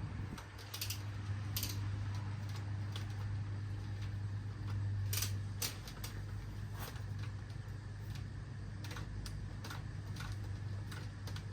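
Scattered light metallic clicks and taps of bicycle parts and hand tools being handled during a tune-up, irregular rather than rhythmic, over a steady low hum.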